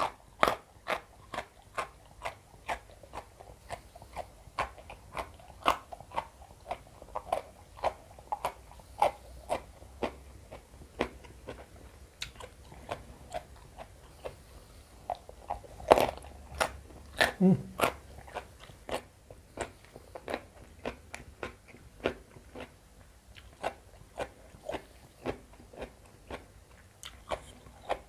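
Close-up crunching and chewing of raw young jengkol beans eaten by hand with sambal, a steady run of crisp bites about two a second, one louder crunch a little past halfway.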